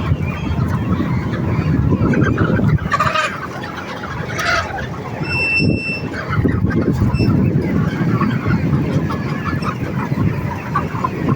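A flock of eight-week-old poultry calling, a continuous din of many birds with a few louder calls standing out.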